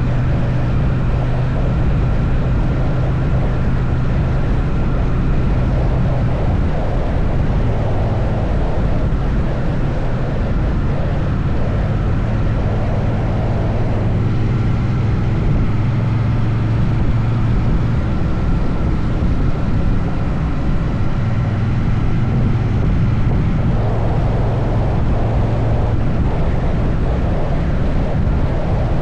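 Triumph Bonneville T100's parallel-twin engine running steadily at highway cruising speed, a steady low drone that shifts slightly every few seconds, mixed with dense rumbling wind and road noise.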